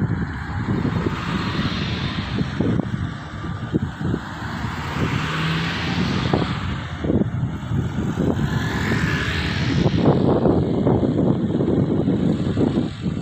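Road traffic: vehicles passing, with a rushing noise that swells and fades about three times over a constant low rumble.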